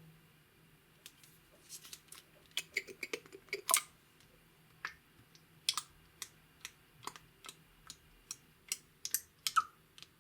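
Clear slime being worked by hand, giving irregular sharp clicks and pops, in a quick cluster early on and then spaced out later.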